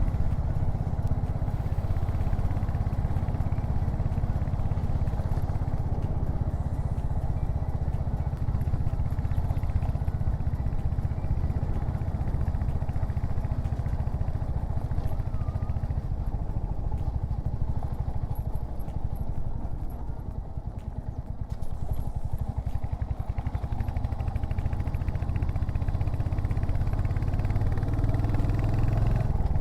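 Royal Enfield Hunter 350's single-cylinder engine running steadily while riding. About twenty seconds in, the throttle eases off and the engine goes briefly quieter, then pulls again.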